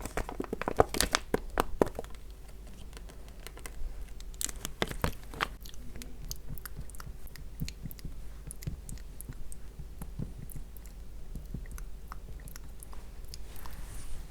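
Close-miked crackling and clicking, dense in the first two seconds and again around four to five seconds in, then scattered small ticks.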